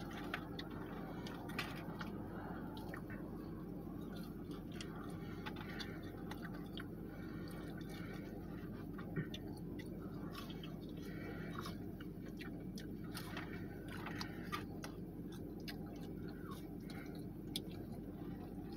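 People chewing and eating McDonald's donuts, with small mouth clicks and smacks scattered throughout, over a steady low hum from the car's air conditioning.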